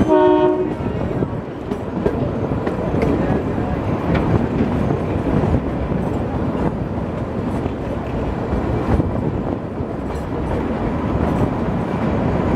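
Kalka–Shimla narrow-gauge train carriages running on the track, heard from aboard: a steady rumble with the wheels clattering over the rails. A short pitched note sounds at the very start.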